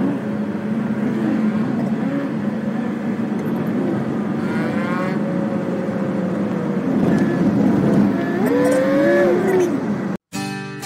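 Car engine running, its pitch rising and falling as it revs, then cutting off suddenly near the end.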